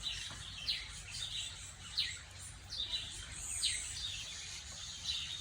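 A bird repeating a short chirp that falls in pitch, a little under once a second, over a low steady hum.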